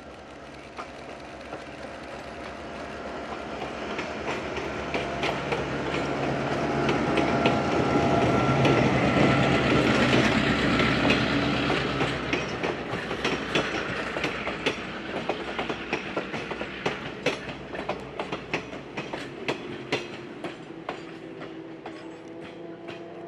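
Krauss-Maffei ML4000CC diesel-hydraulic locomotive passing with a passenger train. Its engine swells to a peak about eight to eleven seconds in. Then the passenger cars roll by with a clickety-clack of wheels over rail joints, which fades as the train moves off.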